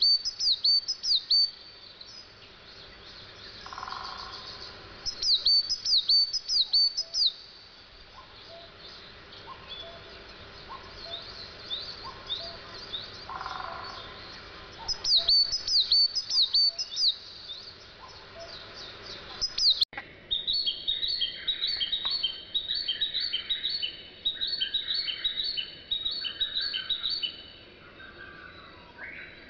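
Wild birds singing: a bird gives short bursts of quick, sharp, repeated notes every few seconds. About twenty seconds in the sound changes abruptly to a busier song of rapid repeated notes.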